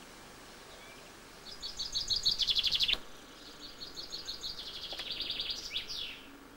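A songbird singing two songs. Each is a quick run of repeated high notes that speeds up and grows louder, and the second ends in a short falling flourish.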